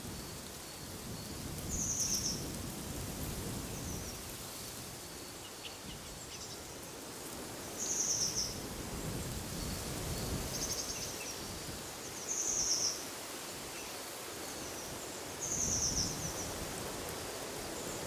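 Songbird giving short, high calls about half a second long, repeating every two to three seconds, with fainter calls between, over a steady rush of wind.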